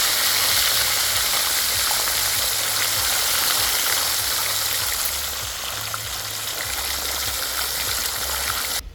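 Fish frying in hot oil in a pan: a loud, steady sizzle that cuts off suddenly near the end.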